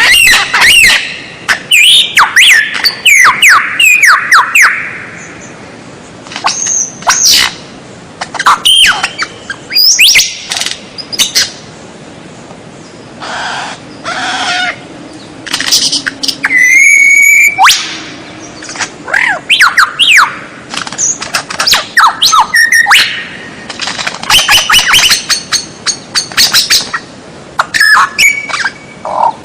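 White-rumped shama (murai batu) singing a loud, varied song of whistles, fast sweeping notes and sharp chattering phrases, in bursts with short pauses between them and one held whistled note about halfway through.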